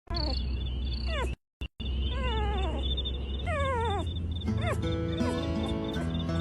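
A pet's drawn-out, wavering cries that slide down in pitch, several in a row, with a brief cut-out after about a second and a half. Music with stepped notes comes in about halfway, under more short rising-and-falling cries.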